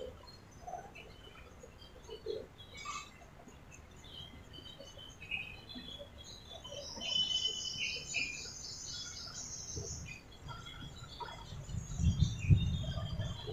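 Small birds chirping and trilling on and off in the background, with a quick run of repeated high notes midway. A few low thuds come near the end.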